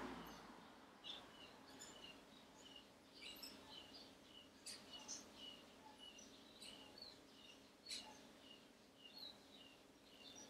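Faint birds chirping in short, scattered high calls over a low steady hum, with a couple of soft clicks.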